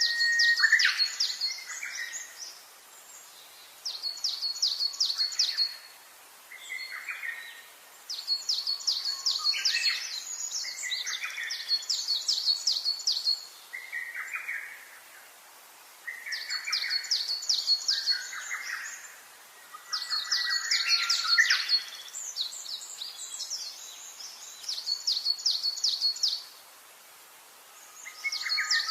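Songbirds singing: bouts of fast, high trilled song a second or several long, with lower short notes mixed in and pauses of a couple of seconds between bouts.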